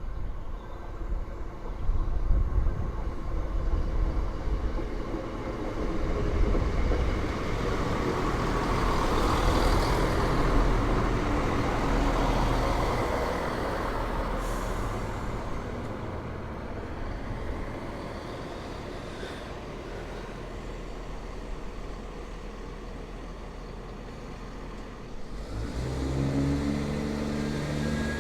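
A train passing through the station: a rumbling noise that builds to a peak about ten seconds in and then slowly fades. Near the end a steady low diesel engine note comes in.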